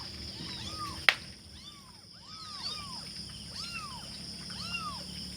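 A litter of hungry kittens mewing over and over, many short rising-and-falling cries overlapping one another. A single sharp click comes about a second in.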